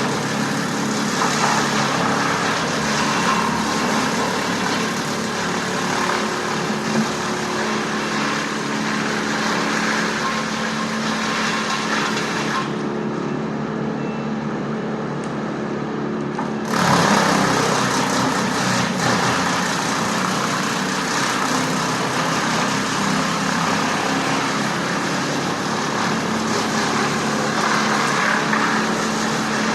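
An engine running steadily. Its high, hissing part drops away for a few seconds about 13 seconds in, then the sound picks up again, louder.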